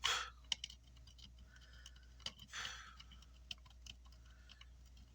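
Light, scattered clicks and taps of small hand tools working on a circuit board, with a short hissing burst right at the start and another about two and a half seconds in.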